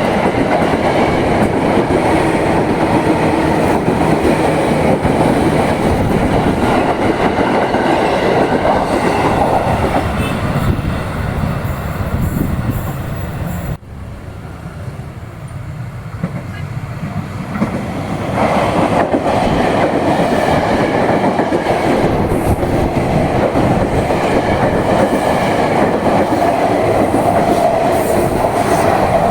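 Electric commuter trains running past on the track, wheels on rail. A JR 205 series train rolls by and its noise dies away about ten seconds in. After a sudden cut, a Tokyo Metro 7000 series train comes up and passes, growing loud again.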